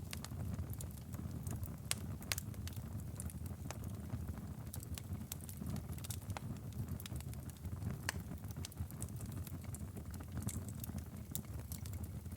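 Wood fire crackling: irregular sharp pops and snaps over the steady low rumble of the flames.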